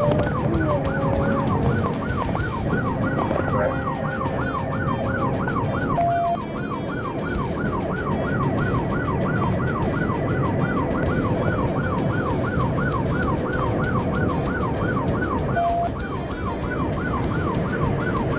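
Police car siren sounding in a fast yelp, its pitch sweeping up and down about three times a second without a break. It sits over the rumble of the cruiser's engine and tyres at speed, with two short beeps, one about six seconds in and one near the end.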